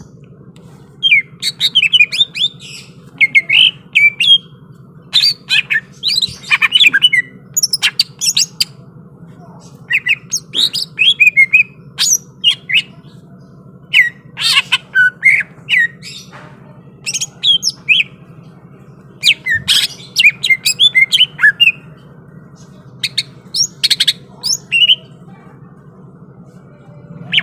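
A cucak ijo (green leafbird) singing in loud, rapid bursts of sharp chirps and whistled notes, in short phrases with brief gaps, over a steady low hum.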